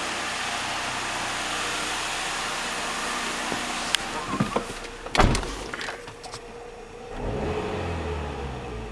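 Car engine idling through an aftermarket short ram air intake with a cone filter: a steady hum with airy hiss. About four seconds in come clicks and a loud thump from a car door. Near the end the engine rises in a brief rev, heard from inside the cabin.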